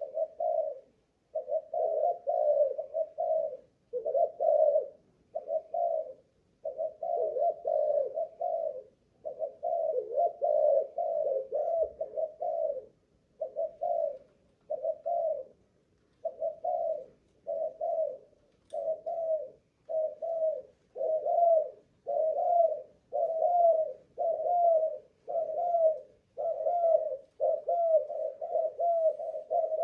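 Spotted dove of the Malaysian singing strain (cu gáy), a decoy bird, cooing on and on: phrase after phrase of low coos with only brief pauses between them, showing its song stamina.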